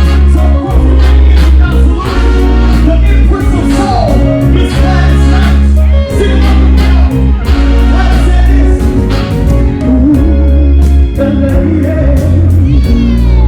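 Loud live hip-hop/R&B music through a festival PA, with a heavy bass line, a steady drum beat and singing over it.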